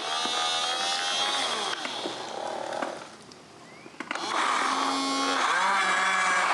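Small electric motors of radio-controlled construction models whining, their pitch rising and falling as they work, with a brief quieter dip about three seconds in before they pick up again.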